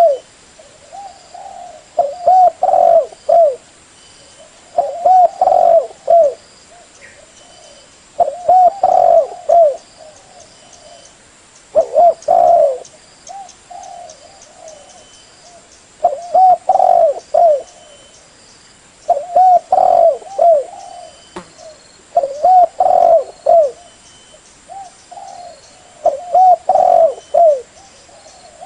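Spotted dove (terkukur) cooing: a short phrase of several low, bending coos, repeated about every three to four seconds, eight phrases in all.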